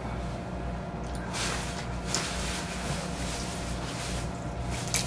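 Close-miked chewing and mouth sounds, with fingers handling food in a styrofoam takeout container, over a steady low hum. A sharp click comes near the end.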